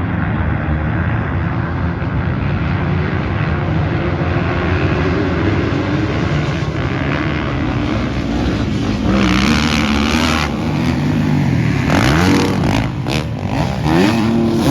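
A pack of motocross bikes racing together, a dense, loud engine noise. About twelve seconds in, single bikes rise and fall in pitch as they rev and pass close by.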